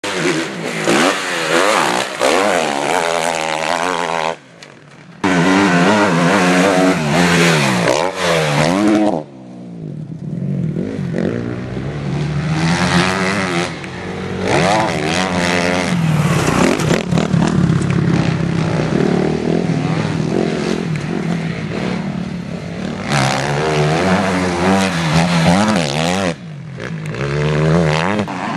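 Motocross bike engines revving hard, the pitch climbing and falling over and over with throttle and gear changes. The sound drops away abruptly for about a second a little after 4 s and again near the end.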